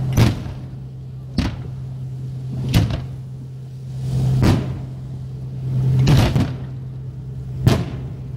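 Aerial fireworks shells bursting, six booms roughly a second and a half apart, over a steady low hum.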